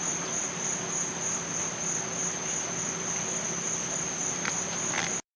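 Crickets trilling steadily, one continuous high-pitched trill over a faint low hum. It cuts off abruptly near the end.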